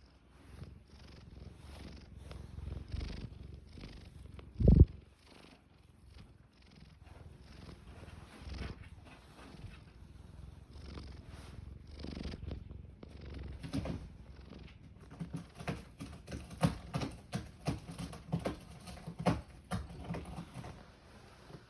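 Domestic cat purring close to the microphone, a steady run of pulsing purr cycles that grow louder and sharper in the second half. A single loud thump comes about five seconds in.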